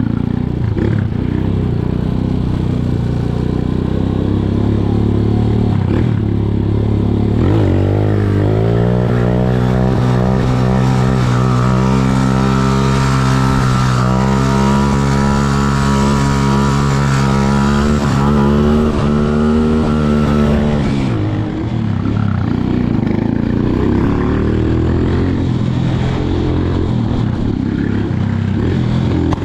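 Motorcycle engine running under way. It settles into a steady pitch about eight seconds in, holds it, then drops away at about 21 seconds.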